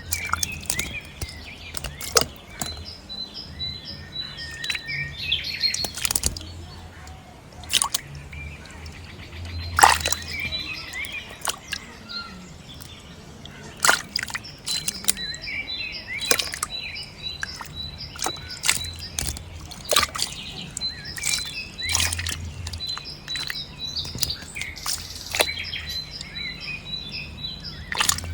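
Small birds chirping with a quick, repeated high note, over frequent sharp clicks and knocks, the loudest about ten seconds in, and a faint low hum that comes and goes.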